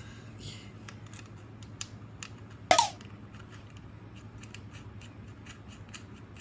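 Light clicks and taps of tools and parts being handled during a motorcycle oil change, with one loud sharp clank a little before the middle, over a steady low hum.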